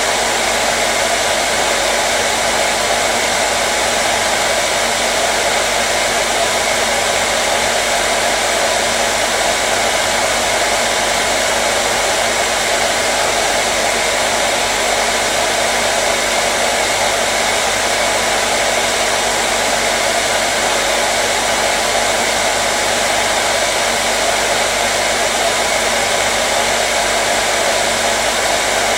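Hair dryer running steadily, a continuous rushing blow of air with a faint motor hum, used as soothing white noise for babies.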